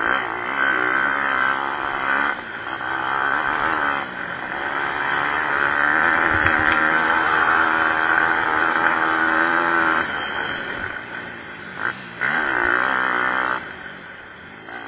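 Pit bike engines revving hard during a motocross race: the engine note climbs and falls again and again as the throttle is opened and shut, with brief drops in between. It gets quieter in the last few seconds as the bikes move away.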